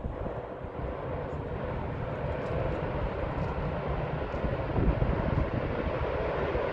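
Aircraft engine noise, a broad roar with deep rumble that grows steadily louder.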